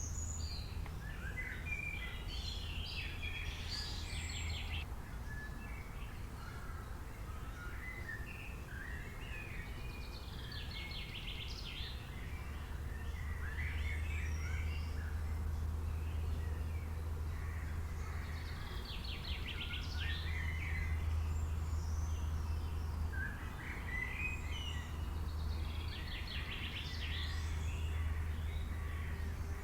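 Wild birds calling, with chirps and fast trills coming in bouts every several seconds. A steady low hum runs underneath.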